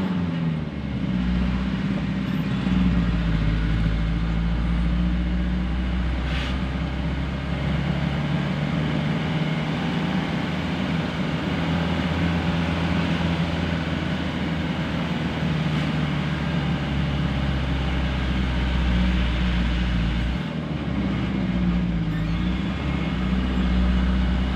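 Truck engine running steadily, its pitch dropping briefly near the start and again near the end before rising back.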